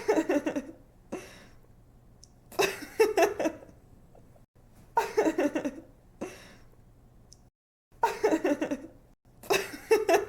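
A young woman laughing in giggles: five short bouts of quick ha-ha pulses, each about a second long and a second or two apart, over a faint steady low hum.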